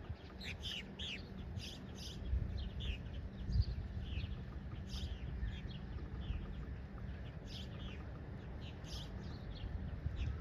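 Small birds chirping over and over: quick, short chirps that fall in pitch, coming in clusters, over a steady low rumble.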